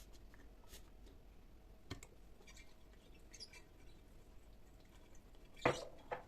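Light taps and clicks of objects being handled, with a small knock about two seconds in, then a louder sharp knock near the end and a softer one just after.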